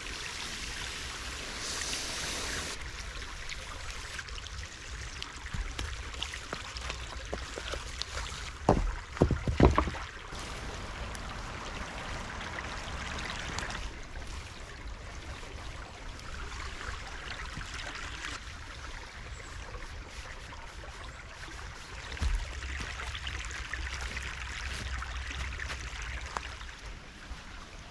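Small woodland stream running, a steady rush of water. A few low thumps about nine seconds in, and another around twenty-two seconds, over a low rumble.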